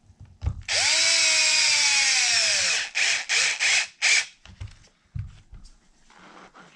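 Power drill driving a bolt on the RC wheel while mounting a paddle tire: one run of about two seconds whose pitch falls as it goes, then four short bursts on the trigger.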